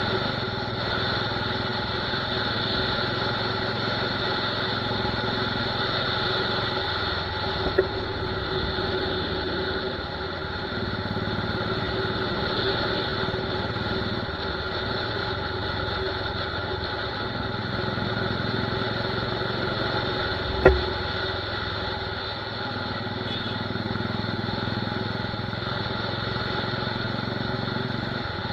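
Royal Enfield Desert Storm's 500 cc single-cylinder engine running steadily through a loud torpedo/megaphone aftermarket silencer. A short sharp crack about 21 seconds in, with a smaller one near 8 seconds.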